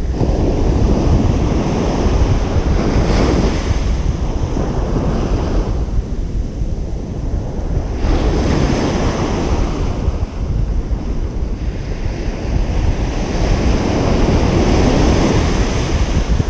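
Ocean surf breaking and washing up a beach, the hiss swelling with a new wave about every five to six seconds. A steady low rumble of wind on the microphone runs underneath.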